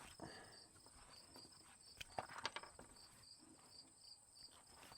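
Faint insects chirping in a steady, high-pitched pulsing rhythm, about four chirps a second. A short cluster of small clicks and knocks comes about two seconds in.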